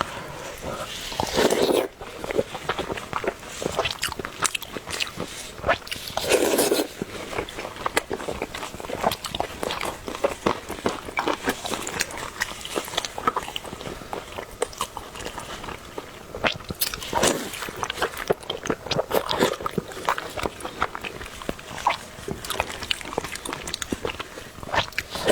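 Close-miked eating: chewing and biting with many small wet mouth clicks, broken by a few louder slurps near the start, around six seconds in, and again past halfway.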